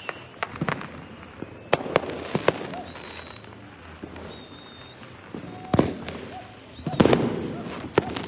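Fireworks going off: irregular sharp bangs and cracks, the loudest just before six seconds and about seven seconds in, the latter trailing off in a rumbling echo. Two short, steady high whistles sound in the quieter middle stretch.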